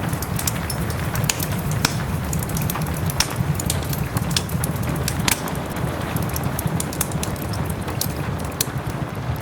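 Wood fire crackling in a fireplace, many sharp pops and snaps over a steady low rumble, with soft rain falling behind it.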